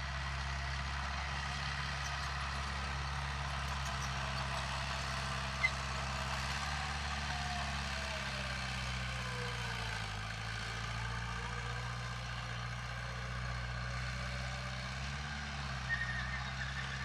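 Heavy diesel engine of earthmoving equipment running steadily, its pitch shifting slightly about ten seconds in and again near the end. A single sharp click sounds about five and a half seconds in.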